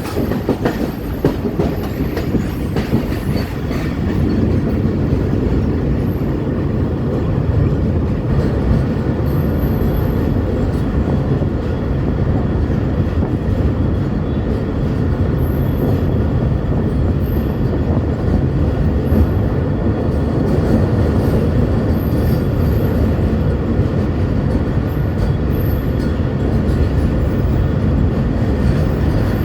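Train running over a railway bridge: a loud, steady rumble that grows louder about four seconds in.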